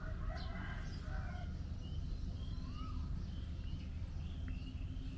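Birds chirping and calling in the background, many short gliding calls, over a steady low rumble.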